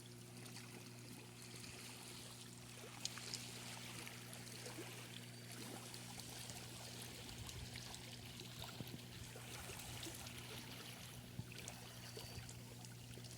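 Faint water trickling and lapping, with scattered small ticks and a steady low hum underneath.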